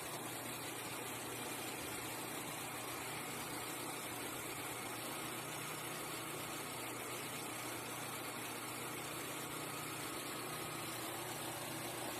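Car engine idling steadily under a constant hiss.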